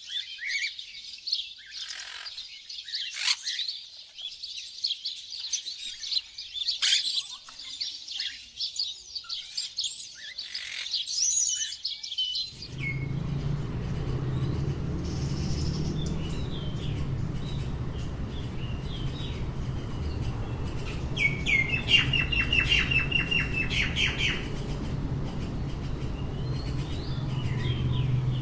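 Many small birds chirping and twittering at once in a dense, high chorus. About halfway through, the sound cuts abruptly to a steady low hum with scattered bird calls, among them a fast trill of repeated notes lasting a couple of seconds.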